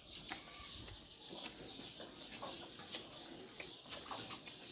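Domestic chickens and ducks making soft, low calls, amid many short, sharp clicks and taps.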